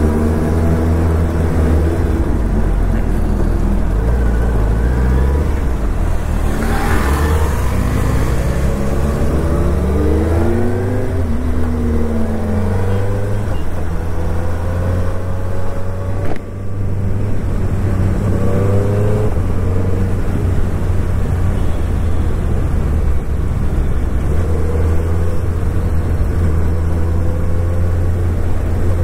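Suzuki Hayabusa's inline-four engine running under way, its pitch climbing and falling again and again as the motorcycle accelerates and shifts gears, with a brief drop in loudness about halfway through.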